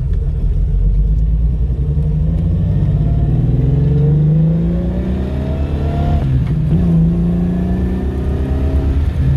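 Holden VK Commodore's 202 straight-six engine accelerating under load, its note rising through the revs. It drops suddenly at a gear change about six seconds in, then climbs again.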